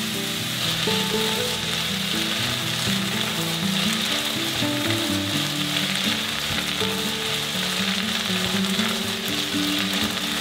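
Chinese sausage fried rice sizzling and being stirred with a spatula in a hot wok, with a steady hiss as light soy sauce is poured along the hot side of the wok.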